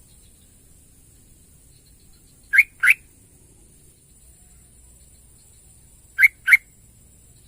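Yellow-vented bulbul calling: two pairs of short, rising notes, the pairs about three and a half seconds apart. A steady high hiss runs underneath.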